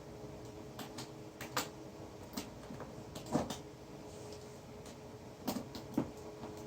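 Scattered knocks and clicks, the loudest about three and a half seconds and six seconds in, over a steady hum.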